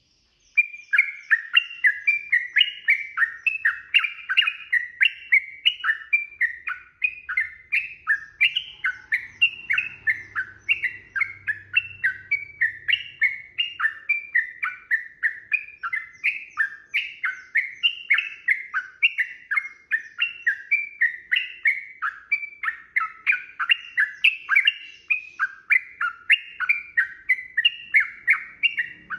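Yellow-vented bulbul (trucukan) singing a long, unbroken run of short quick notes, about two or three loud notes a second, starting about half a second in.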